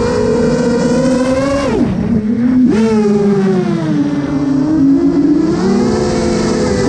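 FPV drone motors whining with several tones at once, their pitch shifting with throttle. The pitch drops sharply about two seconds in as the throttle is cut, then climbs back about a second later.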